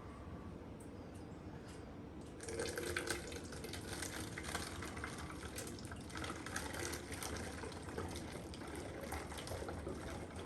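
Warm water being poured into a plastic 2-liter bottle, starting about two seconds in: a steady trickling and splashing as the bottle fills.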